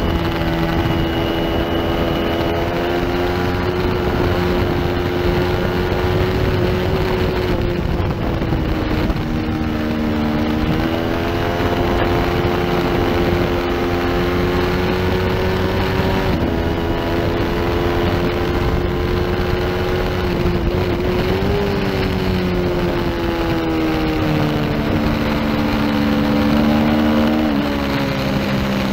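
Onboard sound of a small-displacement racing motorcycle's engine at speed, its pitch rising and falling with the throttle and stepping abruptly at gear changes, about 16 seconds in and again near the end.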